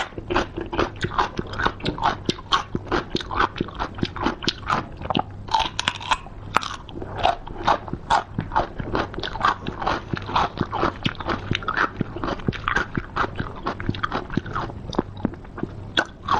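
Close-miked eating of seafood: biting and chewing with wet crunches and smacks coming several times a second.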